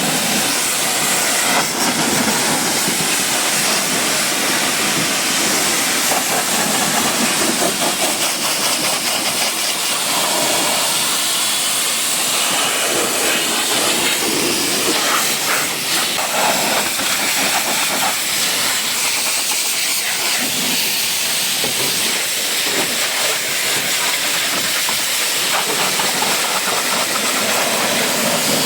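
Pressure-washer jet spraying water onto a car: a loud, steady hiss of spray.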